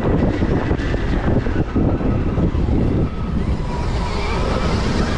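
Heavy wind buffeting on the microphone while riding a Stark Varg electric dirt bike, with the motor's thin whine rising in pitch in the last couple of seconds.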